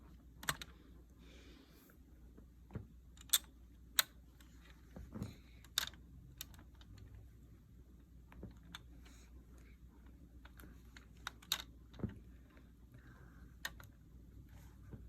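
Plastic LEGO bricks being handled and snapped together: a dozen or so irregular, sharp little clicks and clatters, the loudest a few seconds in.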